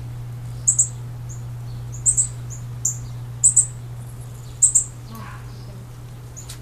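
Small bird chirping: short, very high double chirps repeated about every second or so, over a steady low hum.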